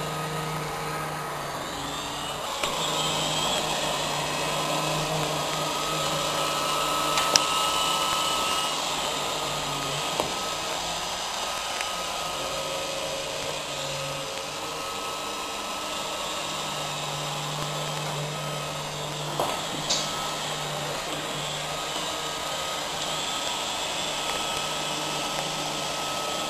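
Roomba robot vacuum running: a steady whir of its suction motor and brushes, with a low hum that comes and goes and a few short knocks.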